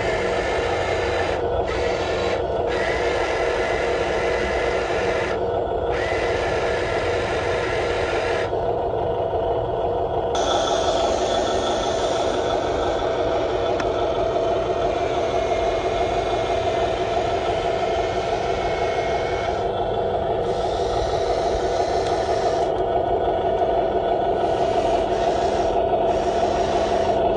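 Electric motors and gearboxes of a radio-controlled model construction vehicle whirring steadily, with a higher hiss that cuts out briefly several times.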